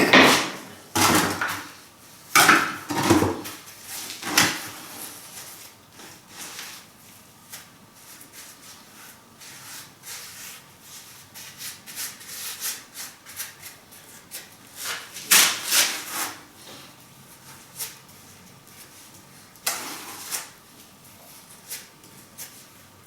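Irregular scraping and knocking of a trowel and flat river flagstones being worked into cement mortar. The strokes come in clusters, several in the first few seconds and more in the middle and near the end, with quiet stretches between.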